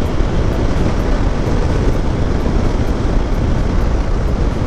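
Steady wind rush on the rider's microphone from a Hero Xpulse 200 motorcycle travelling at road speed, with no distinct engine note standing out.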